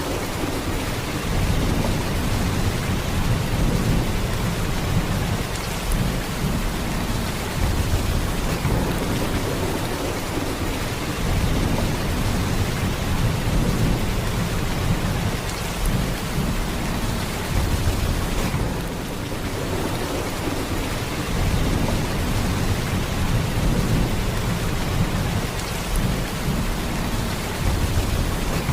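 Heavy rain falling in a steady downpour, a dense hiss with a deep low rumble underneath.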